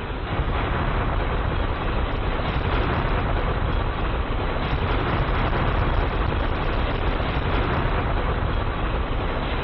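Loud, steady rushing and rumbling noise that swells about half a second in, holds, and eases off near the end.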